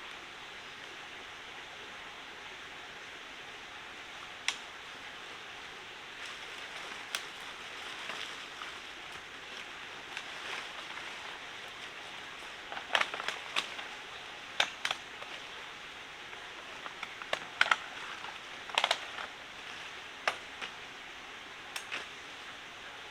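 Steady rushing of a forest stream, with scattered sharp knocks and clicks from about four seconds in, several of them in quick little clusters.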